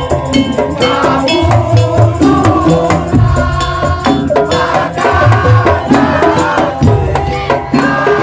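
Madurese daul (musik tong-tong) percussion ensemble playing loud, rhythmic music: wooden slit drums and drums beat under pitched melodic percussion.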